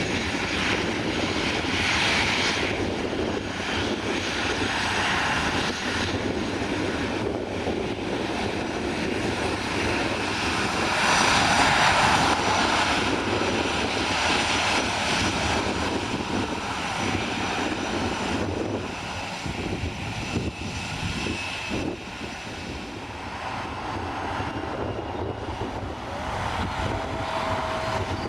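Airliner engine noise as an aircraft moves past. It swells to its loudest about eleven to twelve seconds in, then eases off.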